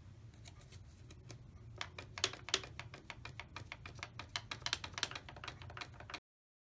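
Paper being handled and creased: a run of irregular crisp clicks and crackles over a faint low hum, cutting off suddenly about six seconds in.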